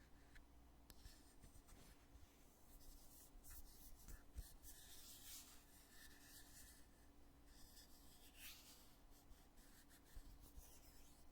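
Faint rubbing and light scratching from a foundation container being handled, with a small tap about four and a half seconds in.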